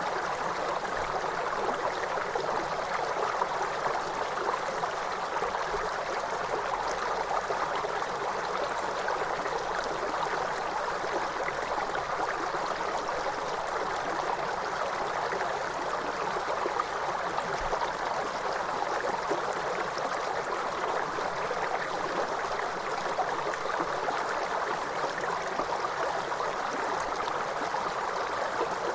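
Waterfall: a steady, even rush of falling water that does not change or break.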